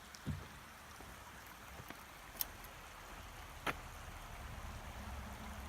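Faint steady rush of running water, with two short sharp clicks midway.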